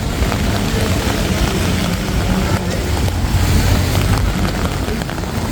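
Steady low rumble of city traffic, with a few faint clicks over it.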